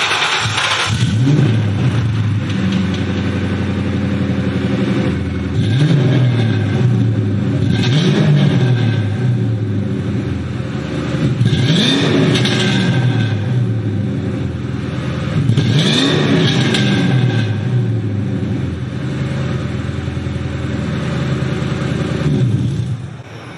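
1996 Mustang Cobra's 4.6-litre four-cam V8 running through new mufflers with no tailpipes fitted, blipped up and back down about five times, then shut off near the end. Its exhaust sounds pretty rattly.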